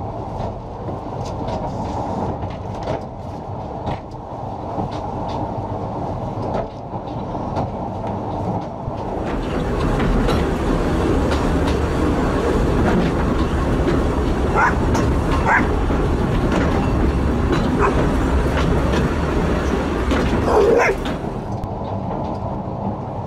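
Narrow-gauge passenger train running along the track, its wheels clicking over the rail joints, heard from the leading coach. About ten seconds in it grows louder, with wind rushing over the microphone, and drops back about two seconds before the end; a few short high squeaks come in the loud stretch.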